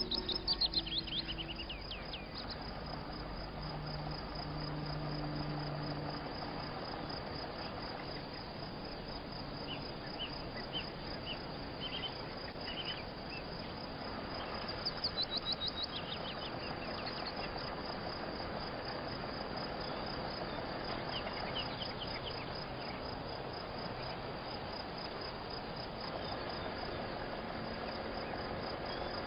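Crickets chirping steadily, with a bird giving a quick falling trill twice, near the start and again about halfway, plus a few short chirps in between.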